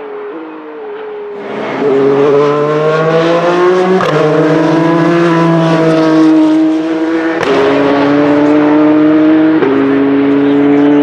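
Toyota TS050 Hybrid LMP1 prototype's 2.4-litre twin-turbo V6 under hard acceleration. It is quieter at first, then loud from about two seconds in, its pitch rising and dropping sharply at three upshifts, about four, seven and a half and nine and a half seconds in.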